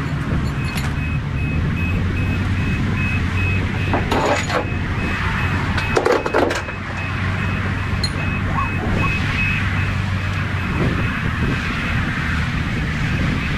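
Semi-truck running down the road, heard from inside the cab: a steady low engine drone over road and wind noise. A faint high beep repeats for several seconds in the first part.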